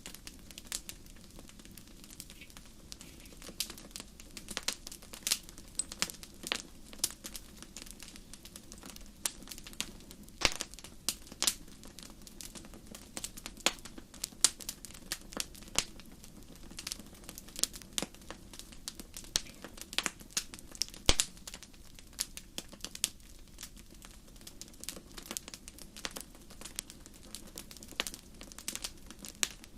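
Wood burning in a campfire, crackling steadily with irregular sharp pops and snaps over a low, even rush.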